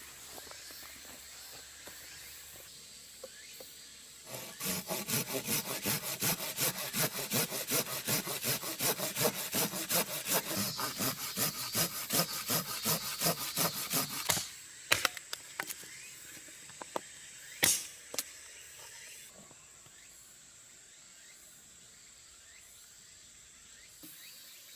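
Hand saw cutting through wood in quick, even strokes, about four a second for some ten seconds, followed by a few sharp knocks.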